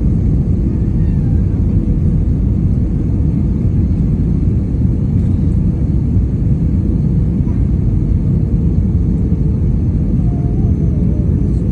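A loud, steady low rumble with no breaks.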